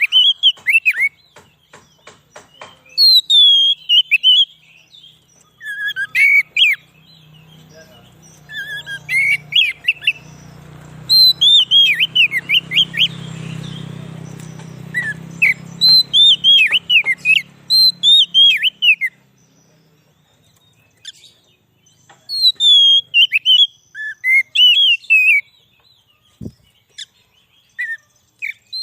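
Oriental magpie-robin (kacer) singing: loud bursts of quick, downward-sweeping whistled notes in phrases, with short pauses between the phrases.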